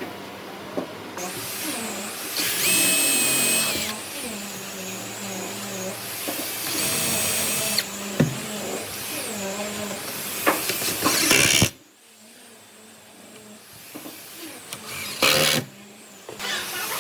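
Handheld electric power tool working wood, running in spells of a few seconds with a high whine; it drops away abruptly about twelve seconds in, with one short burst after.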